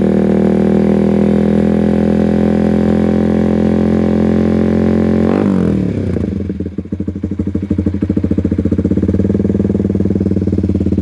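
Honda CBR150R single-cylinder engine breathing through a Rockvan aftermarket exhaust, held at raised revs. About five seconds in, the revs drop back and it settles into a pulsing idle.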